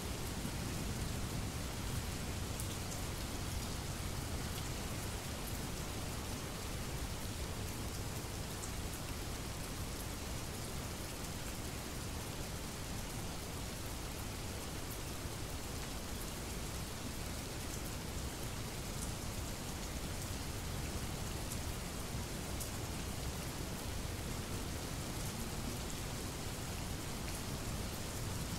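Steady heavy rain, with scattered sharp drop ticks over an even hiss and a low rumble underneath.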